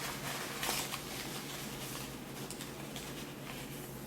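Soft handling sounds in a small room: light rustling and a few faint clicks, the clearest about two-thirds of a second in, as small items are picked out by hand.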